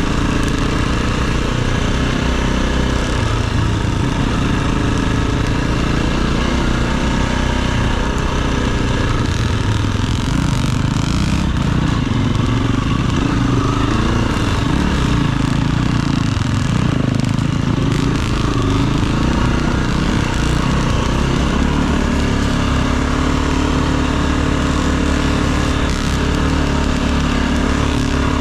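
Enduro dirt bike engine running while being ridden, its pitch rising and falling with the throttle, then holding steadier near the end.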